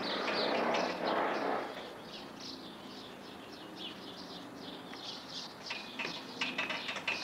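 Small birds chirping over and over, short high chirps a few times a second. A burst of rustling noise fills the first second and a half, and a few light knocks come near the end.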